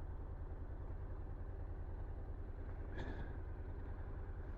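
Honda NC750X's parallel-twin engine idling steadily with a low, even pulse while the bike stands parked. A brief high-pitched sound is heard about three seconds in.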